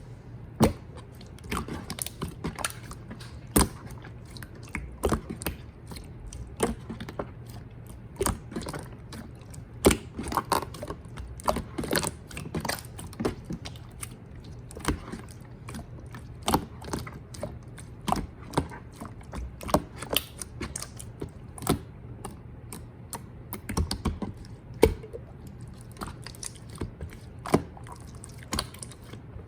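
Pink clear slime being squished and poked by hand, making irregular sticky clicks and pops, several a second, over a steady low hum.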